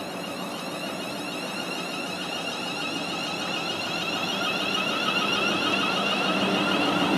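Train approaching, growing steadily louder, with a high warbling whine over the running noise; a lower hum comes in near the end.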